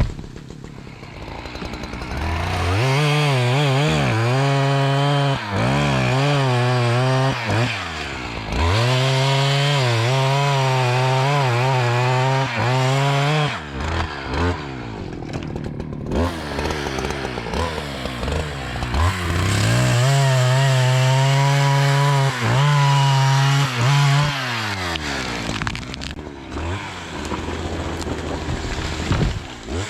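Two-stroke chainsaw run up to full throttle three times, about five seconds each, its pitch wavering under load as it cuts wood, and dropping back to a lower speed between the cuts.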